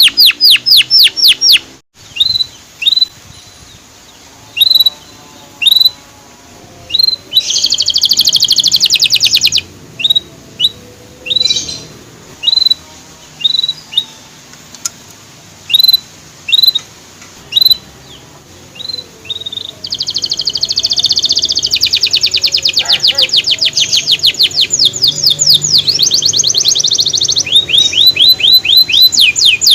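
Canary singing: single upslurred 'cuit' chirps about one a second, broken by short fast trills. About two-thirds of the way in, a long rapid trill of rising notes begins.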